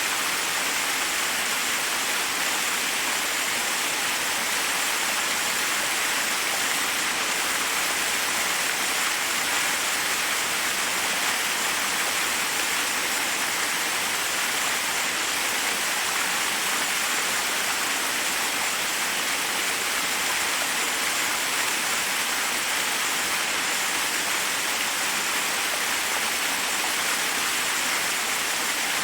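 Waterfall in a forest: water rushing and splashing over rocks as a steady, unbroken hiss.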